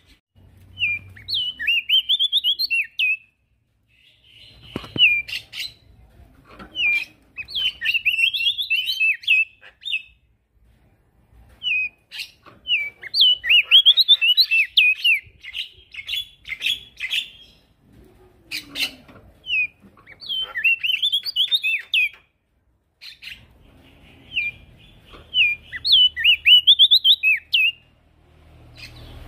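Male prenjak daun songbird singing: energetic phrases of quick, twisting high chirps, repeated every few seconds with short pauses between.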